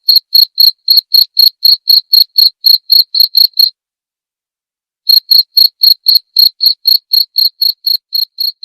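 Cricket chirping in a steady, even series of short, high-pitched chirps, about four or five a second. The chirping breaks off for over a second midway, starts again, and then fades out.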